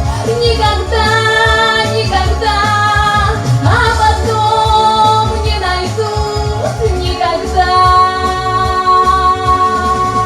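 A woman singing with musical accompaniment, ending on a long held note for the last few seconds.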